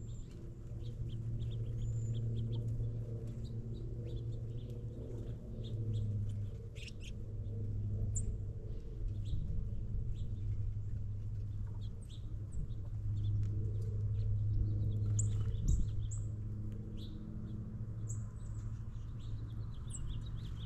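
Small feeder birds chirping and calling in short, scattered notes over a steady low hum.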